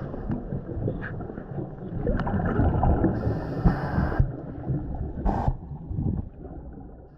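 Muffled underwater rumble and gurgling picked up by a GoPro lying in its waterproof housing in the lagoon, with a few sharp knocks. The sound fades away near the end.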